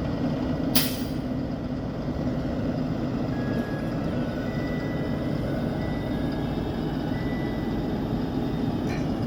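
2015 Ford F750 rollback truck's engine idling steadily. A short, sharp hiss comes about a second in.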